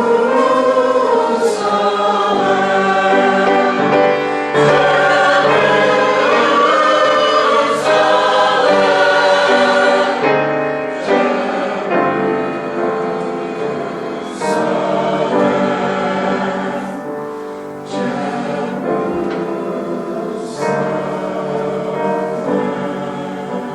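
Church choir singing a number from a Palm Sunday cantata with piano accompaniment, growing gradually softer over the second half.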